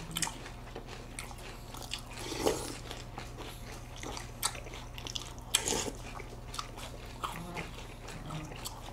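Close-up chewing and crunching of Special K cereal flakes in milk, with scattered short crisp clicks and a few louder crunches.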